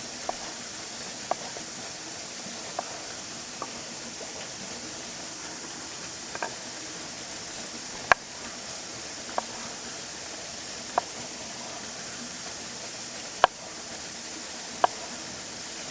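Campfire cooking: a steady hiss with scattered sharp pops and crackles, roughly one a second, some louder than others.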